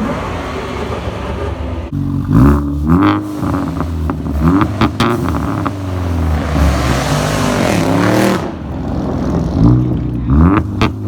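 A car engine being revved repeatedly through its exhaust in short quick blips, with one longer rev held and dropping back in the middle.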